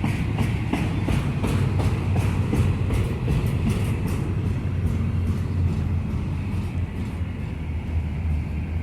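Union Pacific intermodal double-stack freight train rolling past with a steady low rumble. Over the first half there is a regular clicking of wheels over the rail joints, which fades out about halfway through.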